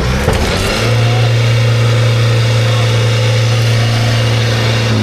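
Off-road vehicle engine revving up, then held at high, steady revs for about four seconds before the revs drop near the end.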